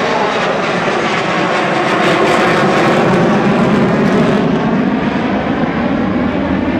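Avro Vulcan bomber's four Rolls-Royce Olympus turbojets as it flies past, a loud steady jet rush whose pitch sinks lower about halfway through as the aircraft passes and moves away.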